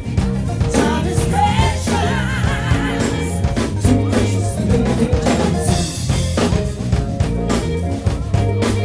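Soul band playing live: drum kit and bass keep a steady beat, with a wavering melody line coming in about a second and a half in.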